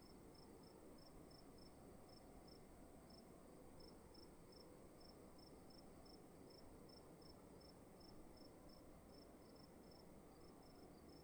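Faint cricket chirping, short chirps repeating at about three a second, over a steady high-pitched tone and a low hiss of room tone.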